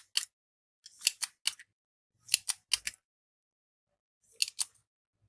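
Spring-loaded desoldering pump (solder sucker) clicking as it is cocked and its release button pushed to suck up molten solder: sharp clicks in four short clusters with silence between.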